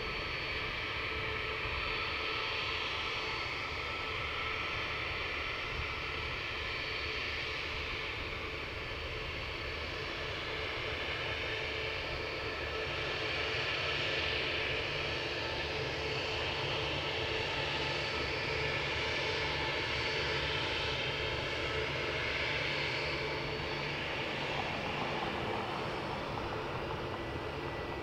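Airliner jet engines at takeoff power: a steady rushing roar with a thin whine over it, swelling a little in the middle.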